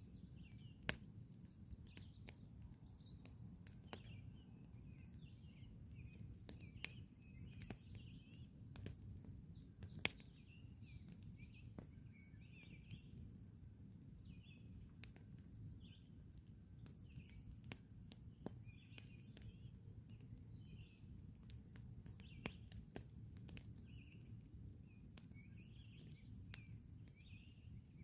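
Campfire crackling, with scattered sharp pops, the loudest about a second in and again around ten seconds in, over a low steady rumble. Small birds chirp and twitter throughout.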